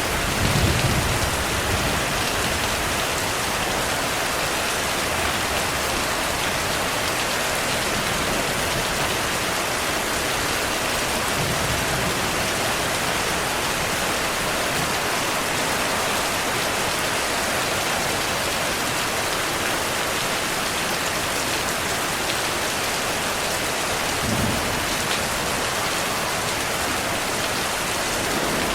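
Heavy rain falling steadily in a thunderstorm. Low thunder rumbles under it now and then, most plainly just after the start and again about three-quarters through.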